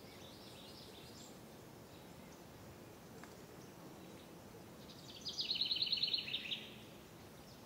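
A songbird sings one rapid trill of evenly repeated notes, about a second long, a little past halfway, over a faint steady outdoor hiss. A few faint, high chirps come near the start.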